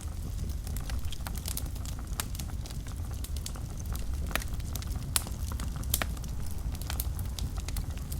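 Fire burning in a fireplace: a steady low rumble of flames under constant irregular crackling, with a few louder pops near the middle.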